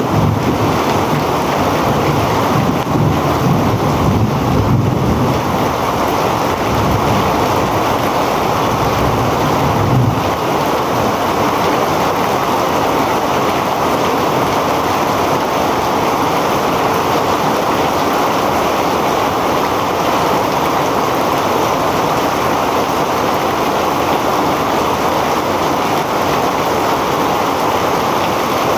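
Heavy rain pouring down as a loud, steady hiss. A low rumble runs under it for the first ten seconds or so, then stops.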